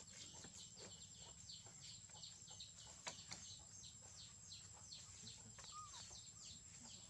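Faint bird chirping: a steady run of short, high, falling chirps, about three a second, over a thin steady high tone. A single sharp click comes about three seconds in.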